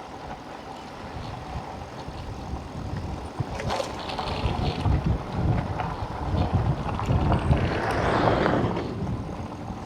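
Wind buffeting the microphone and tyres rolling on a dusty dirt road while riding an electric bike, the rushing swelling louder about seven to nine seconds in.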